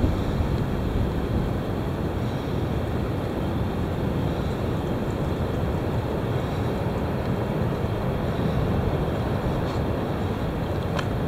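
Strong wind blowing and buffeting the microphone, a steady low rumble.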